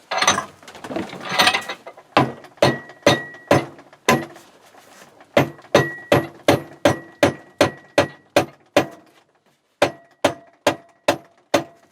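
Repeated hammer blows on a heated, seized steel handle and pin of a cast-iron workbench vise, about three ringing metallic strikes a second in three runs with short pauses, after a brief scraping rattle; the part stays stuck and does not move.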